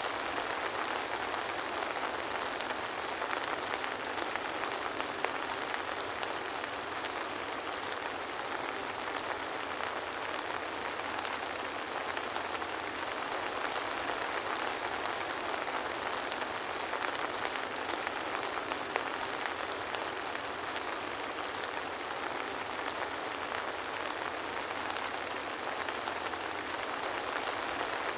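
Steady soft rain falling, an even hiss of drops with no thunder.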